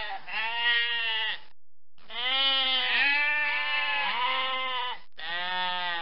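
Sheep bleating: three long, wavering bleats. The middle one lasts about three seconds.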